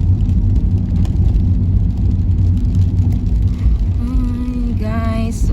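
Steady low rumble of a car's engine and tyres heard from inside the moving car. A voice starts about four seconds in.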